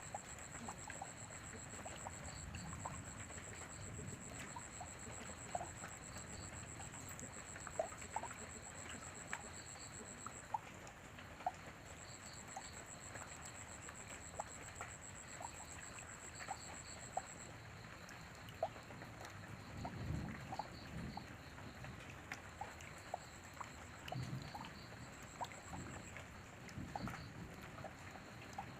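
Light rain, a faint steady hiss with scattered drops and drips ticking, and a few low rumbles, the strongest about 20 s in. A high, pulsing trill runs over it, dropping out about 10 s in and again about 17 s in.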